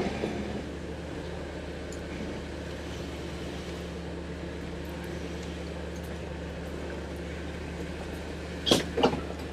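Jeep engine running steadily at low revs while the vehicle crawls over rocks, a steady low hum. A brief sharp noise comes near the end.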